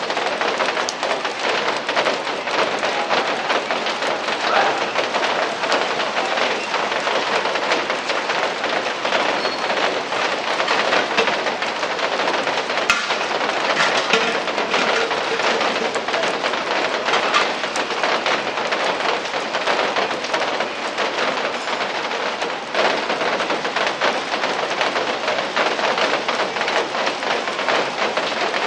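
Steady rain falling, a dense, even hiss of drops with many small individual drop ticks hitting surfaces.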